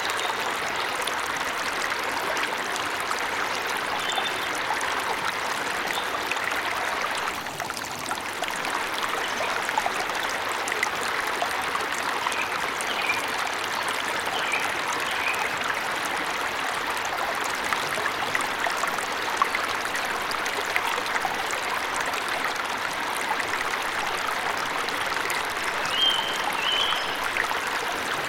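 Steady rush of a forest waterfall, with a few faint bird chirps about halfway through and again near the end.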